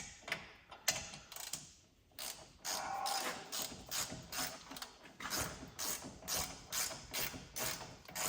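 Harbor Freight Icon G2 ratchet clicking as it runs in the hub bearing mounting bolts, with a rhythmic back-and-forth of about two strokes a second from about two seconds in. The bolts are drawing the new hub bearing into the knuckle.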